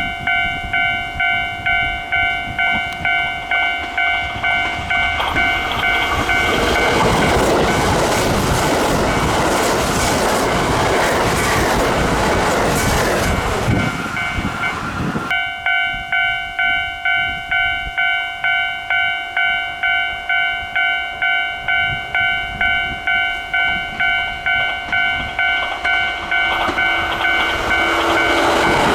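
Japanese level-crossing alarm ringing with a steady, repeating electronic ding, about two strokes a second. A Kintetsu train passes from about six to fifteen seconds in, its running noise drowning the alarm, which then rings on; near the end another train begins to approach.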